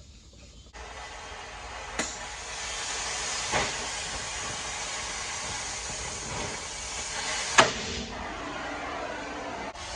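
A steady hiss that starts just under a second in, with three sharp knocks over it, the loudest about seven and a half seconds in.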